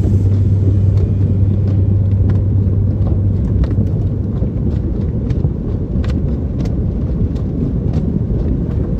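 Low vehicle rumble with a steady hum that stops about three seconds in, followed by scattered light taps.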